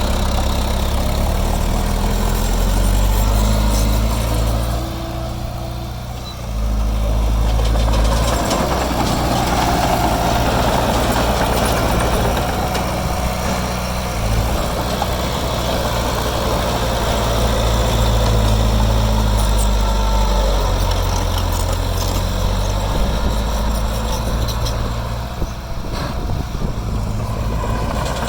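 Heavy diesel engine of earthmoving machinery running under changing load, its note shifting up and down. It eases off about five seconds in, then comes back up quickly.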